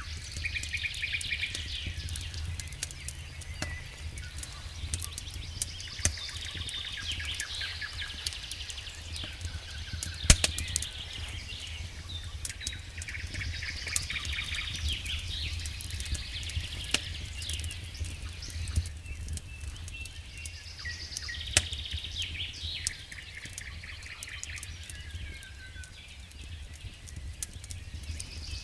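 Campfire crackling, with sharp pops now and then, the loudest about ten seconds in and again a little past twenty. Over it a songbird sings short chirping phrases every few seconds, and a steady low rumble runs underneath.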